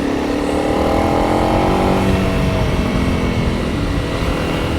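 Honda CRF300 Rally's single-cylinder engine running on the move, its revs rising over the first two seconds and then holding steady, with wind rumble on the microphone.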